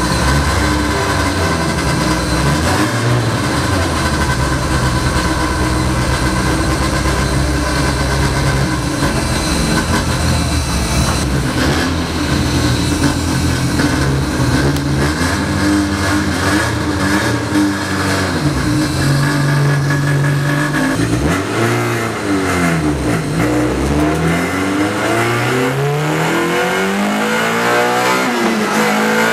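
MG ZR 105 rally car's engine heard from inside the cabin, running and revving as the car pulls away in low gears. In the last several seconds the engine note rises and falls again and again as it accelerates and shifts.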